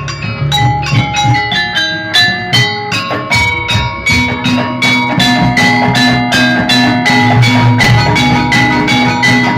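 Jaranan gamelan music: metal keyed percussion struck in a fast, ringing melody over drums. A steady low held tone joins about four seconds in.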